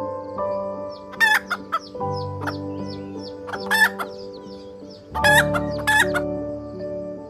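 Chickens clucking, with a few loud calls about a second in, near the middle and near the end, over gentle background music of held notes.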